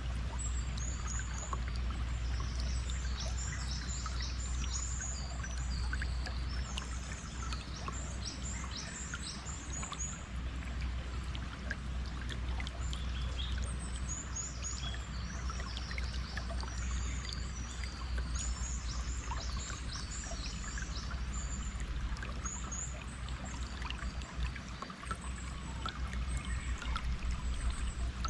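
Steady sound of flowing stream water with a low rumble, and small birds chirping and twittering in bouts of quick high calls.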